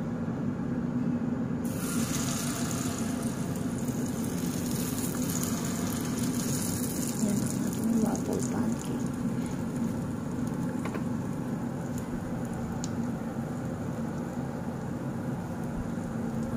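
Pancake batter hitting hot butter in metal egg rings on a pan and sizzling. The sizzle starts suddenly about two seconds in and slowly fades over the following seconds, over a steady low hum.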